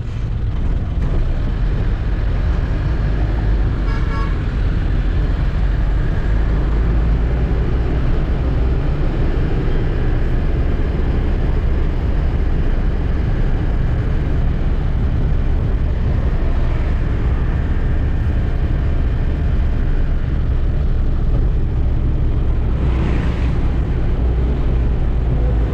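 Truck engine running with a steady low rumble in city traffic, with a short horn toot about four seconds in and a brief hiss near the end.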